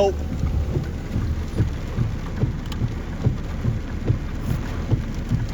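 Rain and gusting wind from the tornado's rear-flank downdraft beating on the storm-chase vehicle: a steady low rush with irregular low buffeting thumps.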